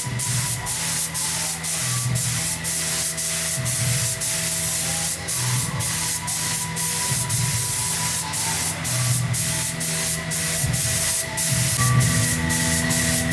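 Steady hiss of an air-powered spraying tool, broken by brief gaps several times a second, over the steady hum of a motor.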